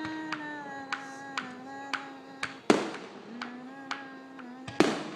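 Fireworks finale: a string of sharp cracks, then two louder bangs, one near the middle and one near the end, over a tune held on long, steady notes.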